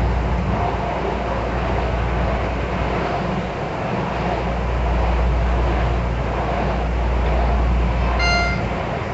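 Miami-Dade Metrorail train running along its elevated track, heard from inside the car as a steady, deep rumble. A short pitched tone sounds about eight seconds in.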